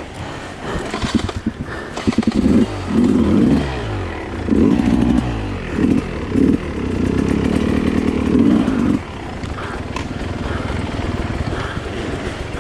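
Dirt bike engine being ridden, revving up and down in repeated bursts, loudest from about two to nine seconds in, then running more steadily and quieter.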